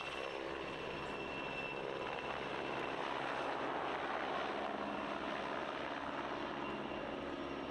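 Twin-engine PZL W-3A Sokół helicopter in flight, a steady engine and rotor noise with a thin high turbine whine for a couple of seconds early on.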